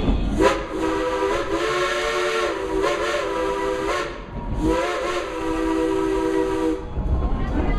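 Chime whistle of a coal-fired steam locomotive sounding two long blasts, a chord of several tones with a steamy hiss, the first about three and a half seconds long and the second about two seconds.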